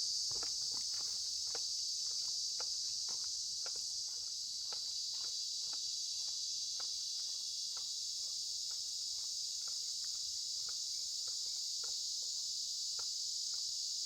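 Steady high-pitched drone of an insect chorus, with faint ticks about twice a second beneath it.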